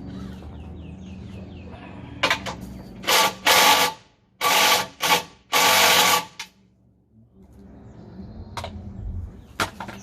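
Handheld power tool run in about six short bursts over four seconds, the last the longest.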